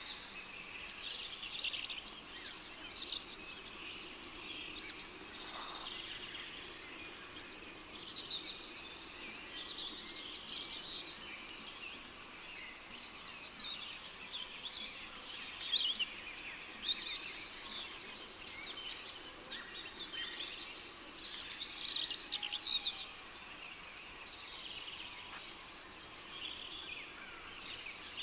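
Rainforest ambience: a cricket chirping in a steady, high-pitched pulse of about five chirps a second, pausing briefly twice, under scattered calls of several birds.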